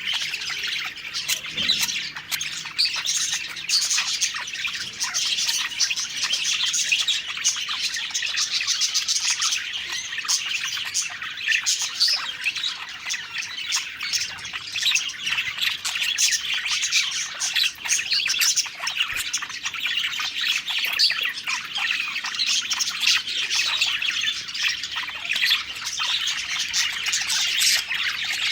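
Several budgerigars (parakeets) chirping and warbling together in a dense, continuous chatter.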